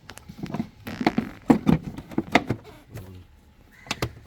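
A series of irregular knocks and clicks, clustered in the middle and again near the end.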